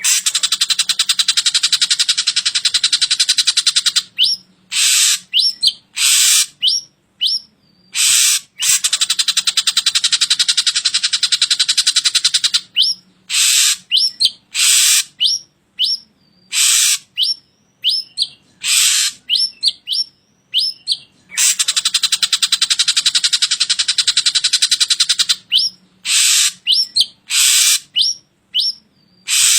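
Drongo song: long, rapid rasping chatters alternating with short clear whistles that sweep up and then down, and brief harsh notes.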